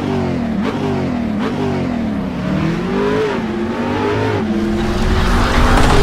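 Intro sound effect of a car engine revving, its pitch rising and falling several times, then building into a louder rumble near the end.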